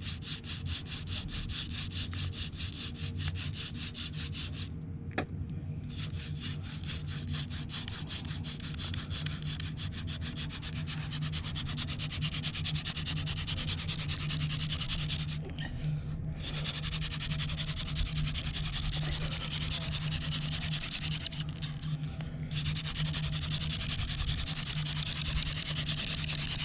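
Hand drill for friction fire: a wooden spindle spun back and forth between the palms, grinding into a wooden hearth board. It makes a fast, rhythmic rasping that stops briefly three times before starting again.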